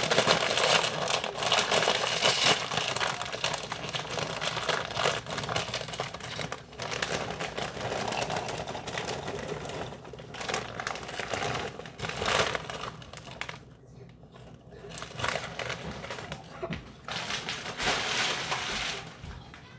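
Crinkling and rustling of plastic food packaging being handled, on and off, with a few brief pauses.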